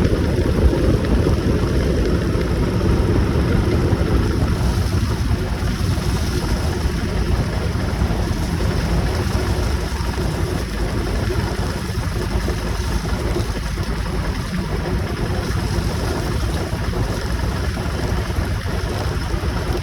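Motorcycle on the move: steady wind rush buffeting the microphone over a low engine and road rumble, a little heavier in the first few seconds.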